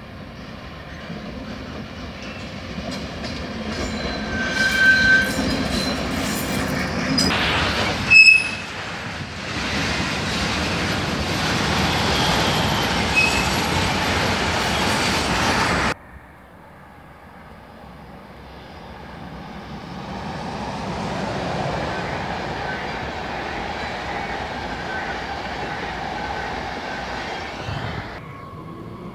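Trains passing through a station: a DB Class 232 diesel locomotive hauling a freight train, with the wheels squealing in high tones, then a double-deck regional train running past steadily. After a cut, another passing train swells up and fades again.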